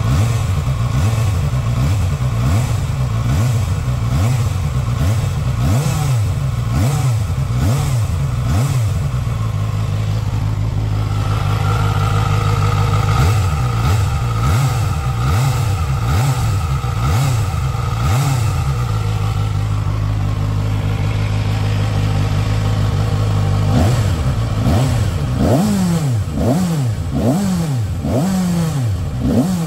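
ZXMOTO 500RR motorcycle engine running at normal operating temperature after 1,000 km of hard riding: a steady idle broken by repeated throttle blips, the revs rising and falling in quick arcs, most often in the last few seconds.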